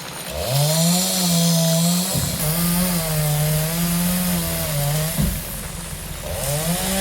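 Chainsaw revving up and cutting through acacia logs, its engine note wavering and dipping under load. It eases off about five seconds in and revs up again near the end.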